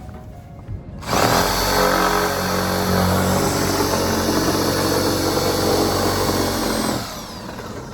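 Power drill running steadily at full speed for about six seconds, likely boring through the framing, then released and winding down with a falling whine.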